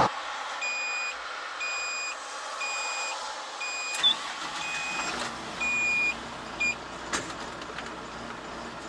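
Vehicle reversing alarm, a high beep repeating about once a second for about six seconds, with a faint engine running underneath from about halfway.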